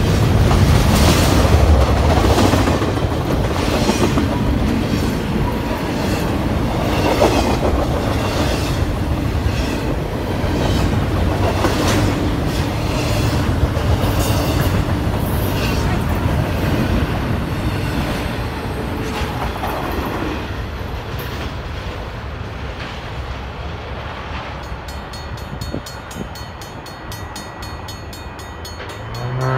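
Double-stack intermodal container freight train rolling past: a steady rumble with wheels clacking at regular intervals. The sound fades steadily through the last third as the final cars go by.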